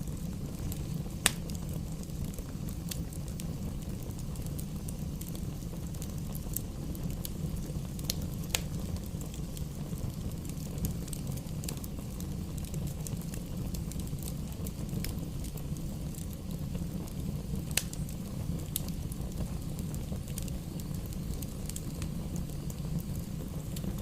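Wood fire burning in a fireplace: a steady low rumble of flames with scattered sharp crackles and pops from the burning logs, one louder pop about a second in and another about three-quarters of the way through.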